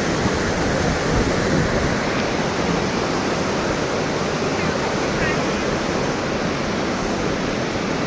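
Thomson's Falls, a 74-metre waterfall, roaring steadily as the water crashes down at its base: a constant, even rush of falling water.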